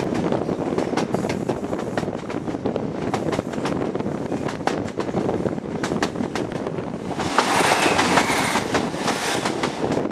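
HST coach wheels running over jointed track with a steady rumble and irregular clickety-clack of rail joints, heard at an open window. From about seven to nine and a half seconds in, a louder rush of noise as a class 158 and 153 diesel unit coupled together passes on the adjacent line.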